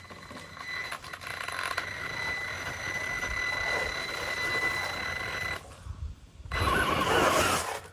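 Electric motor of an RC crawler truck whining at a steady high pitch as it pulls a dead-weight sled. The whine stops about five and a half seconds in, and a louder burst of noise follows near the end.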